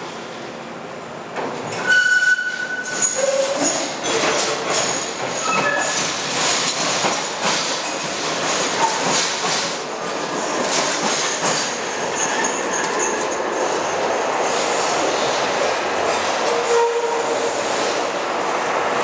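Manchester Metrolink tram running along the track, loud from about a second and a half in, with clattering wheel clicks and brief high wheel squeals.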